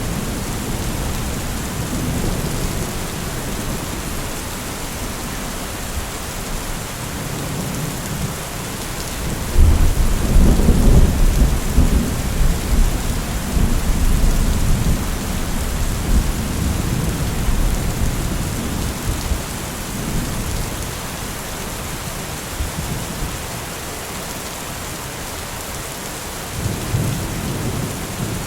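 Steady heavy rain hissing, with a roll of deep thunder building about a third of the way in and slowly fading, and another rumble starting near the end.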